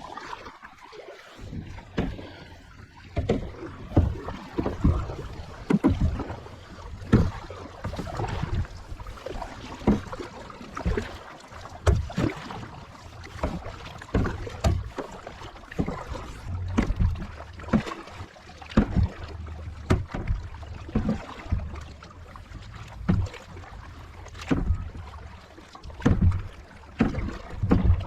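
Kayak paddle strokes: the blades dipping and pulling through the water in a steady rhythm of about one stroke a second, with splashes and drips.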